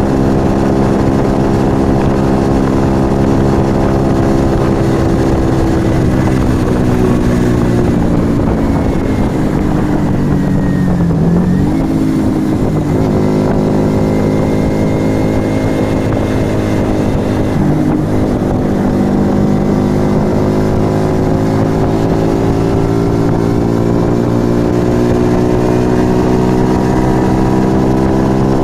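Yamaha XV125 Virago's small V-twin running through an aftermarket Turbo Kit exhaust while riding. The engine note falls from about six seconds in to about eleven seconds, picks up again, dips briefly near eighteen seconds, then climbs steadily toward the end, over a low wind rumble.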